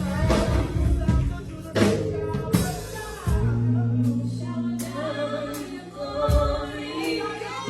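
Gospel worship music: singing over a band, with drum hits and sustained low chords.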